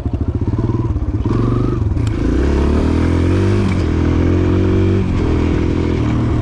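Small gas pit bike engine under way: a low putter at first, then the revs climb and drop back as it is shifted up through the gears.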